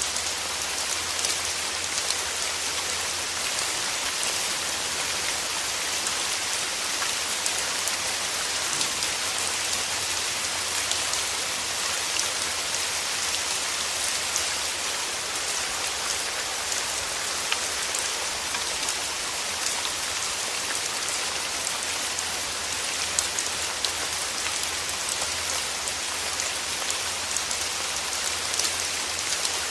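Steady rain with a dense, close patter of raindrops, many small individual drop ticks over an even hiss.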